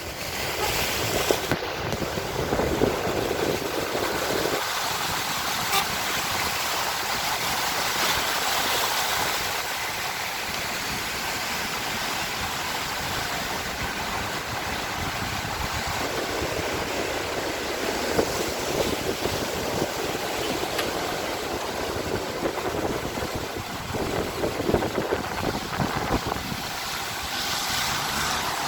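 Street traffic on a flooded road: vehicles running and car horns tooting over a steady rushing noise.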